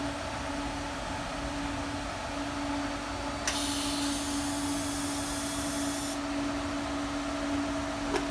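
TIG welder humming steadily. About three and a half seconds in, a high hiss from the torch starts suddenly and cuts off about three seconds later, as a short weld attempt on aluminum is made. A click comes near the end.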